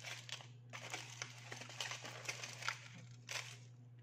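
Eating noises: a chicken sandwich wrap being chewed and handled, giving irregular soft crackly, crinkly sounds over a steady low hum.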